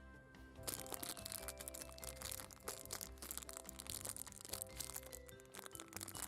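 Plastic packaging of a capsule toy crinkling and crackling as it is handled, starting about a second in, over soft background music.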